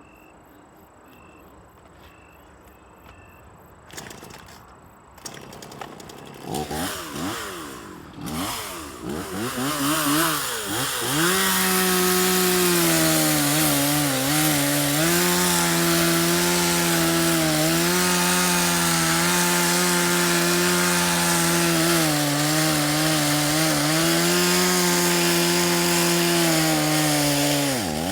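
Small petrol engine of firewood-cutting equipment starting up. Its pitch swoops up and down a few times, then it settles into steady high-speed running, dipping briefly a few times as if under load.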